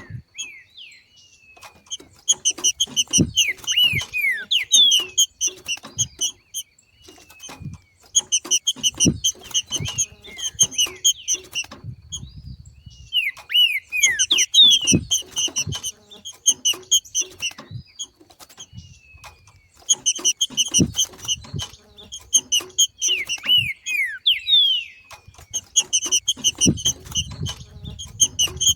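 Trinca-ferro (green-winged saltator) giving its 'macheado' chatter: bouts of a few seconds of fast, high, chattering notes mixed with downward-slurred whistles, broken by short pauses. Soft low thumps are scattered among the bouts.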